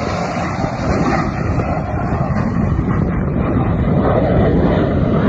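Aircraft engine noise from a plane in flight: a loud, steady rush.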